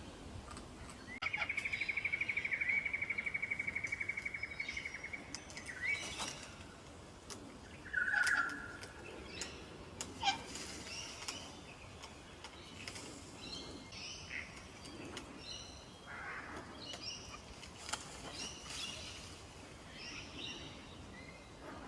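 Wild songbirds calling: about a second in, one bird gives a loud, fast trill at a steady pitch for about four seconds. A short loud call follows near 8 seconds, then scattered chirps and faint clicks.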